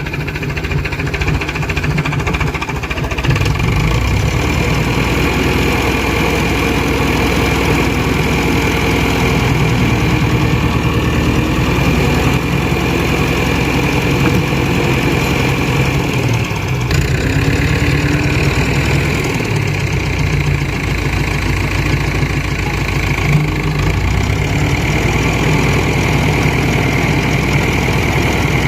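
Fordson Super Major tractor's diesel engine running steadily just after starting, picking up speed a few seconds in, then holding near idle with small changes in speed.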